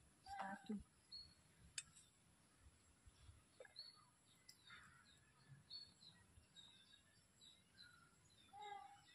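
Near silence with faint, scattered bird chirps: short high calls every second or so, and a single sharp click about two seconds in.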